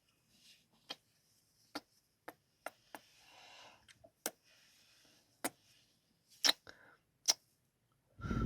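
Close-up kiss sounds into the microphone: about nine sharp lip smacks at irregular intervals, with soft breathing between them.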